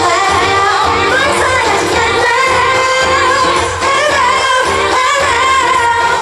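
Female pop singer singing live over a band accompaniment, ending on a long held note with vibrato.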